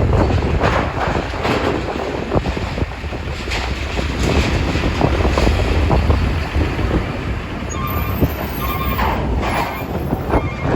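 Strong wind buffeting the microphone: a loud, irregular low rumble with constant gusting surges.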